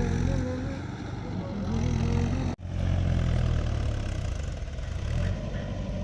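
Tractor diesel engine running steadily under load, its pitch wavering a little in the first two seconds, with a brief drop-out about two and a half seconds in.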